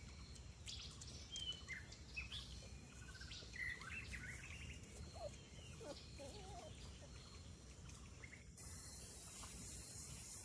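Faint bird chirps and calls, many short rising and falling notes, over a low steady outdoor background. The calls stop and the background hiss changes abruptly near the end.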